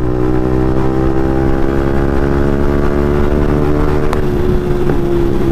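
Yamaha MT-15's single-cylinder engine with an Akrapovic exhaust, running at steady revs on the move; its pitch eases slightly, then holds. Two brief sharp ticks come near the end.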